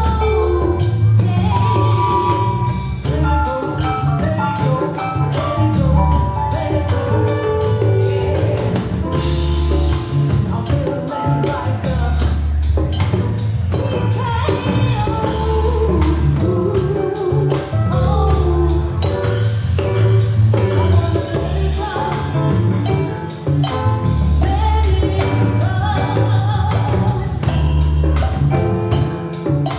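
Live band music: a singer over a steady bass line, guitar and drums.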